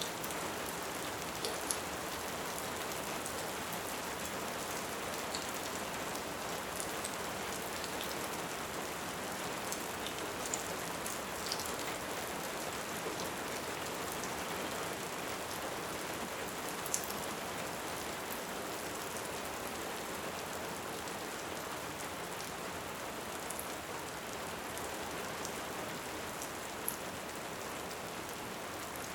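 Steady rain, with a few sharp crackles from a wood fire scattered through it.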